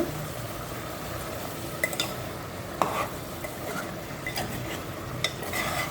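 Chicken frying in oil with onion, tomato and tomato juice, sizzling steadily while a spoon stirs it. A few sharp scrapes and knocks of the spoon against the pan come through along the way.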